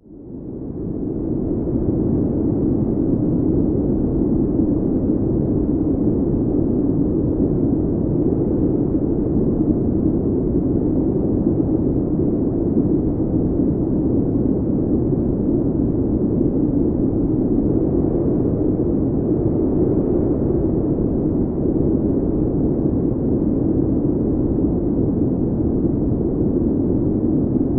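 Snowstorm wind making a steady, muffled low rush with no gusts or clicks. It fades in over the first second or two.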